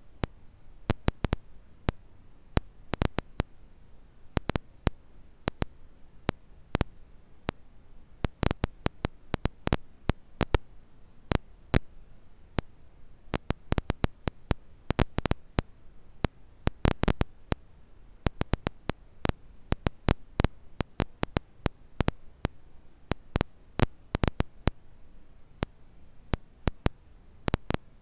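Wood campfire crackling: irregular sharp pops and snaps, several a second and bunched in places, over a faint low hiss.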